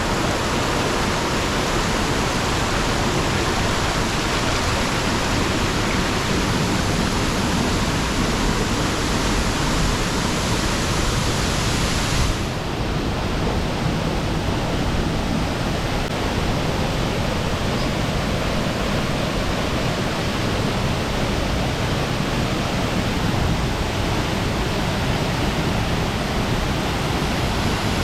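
Waterfall pouring steadily, a loud, even rush of falling water. About twelve seconds in, the high hiss drops off suddenly, then the rush carries on.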